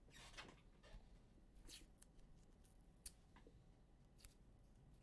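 Faint handling of trading cards: a soft sliding swish at the start and another about a second and a half in, with a few light clicks, near silence between.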